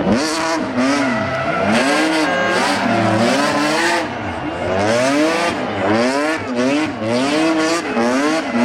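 Rally car engine revved hard in rapid surges, its pitch rising and falling about twice a second as the throttle is worked on and off, with some tyre squeal.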